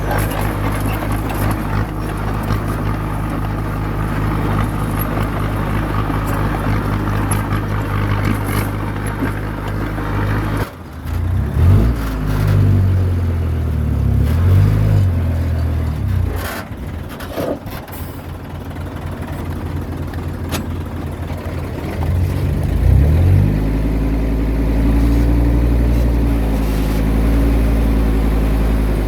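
Diesel engine of a Komatsu bulldozer working. It runs steadily, then changes abruptly: the engine speed rises and falls several times, settles lower for a few seconds, and climbs again to a steady higher speed near the end.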